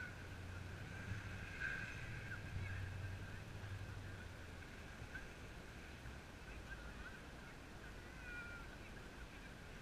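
Faint, scattered high calls of distant birds over a low rumble of wind on the microphone, the rumble easing off about halfway through.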